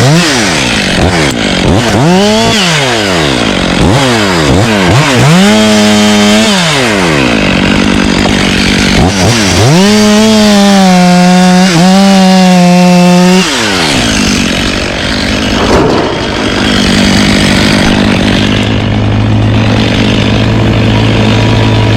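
Chainsaw revved in short bursts several times, then held at full revs for about four seconds before dropping back to a steady idle.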